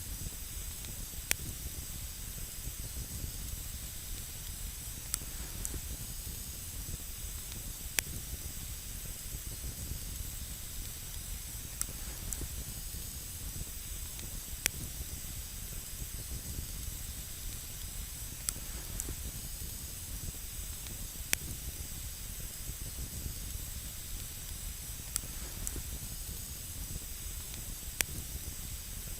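Campfire burning with a steady hiss and low rumble, broken by single sharp crackles every two or three seconds.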